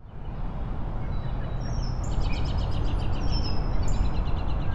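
Birds chirping repeatedly over a steady low rumble of outdoor background noise, which fades in at the start; the chirps begin about a second and a half in.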